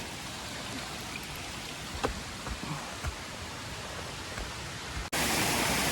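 Small creek cascade running steadily, with a few light knocks about two seconds in. About five seconds in the sound cuts suddenly to louder rushing water from a waterfall.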